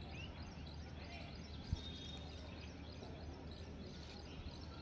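Faint birds chirping, with short scattered calls over a steady low background rumble. One brief low thump about two seconds in.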